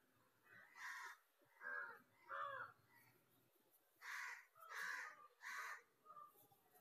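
Faint, harsh bird calls repeated in two runs of three, each call short and about half a second apart, with a pause of about a second between the runs.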